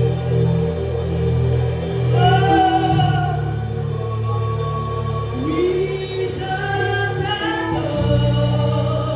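Gospel worship music: singing over steady held instrumental notes, the voices coming in about two seconds in.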